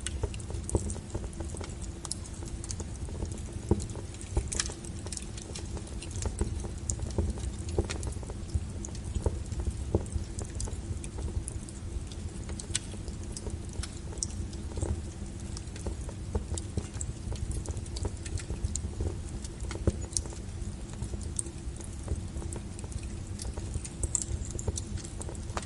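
Wood fire crackling: irregular snaps and pops of burning logs, a few sharper pops standing out, over a low steady rumble of the flames.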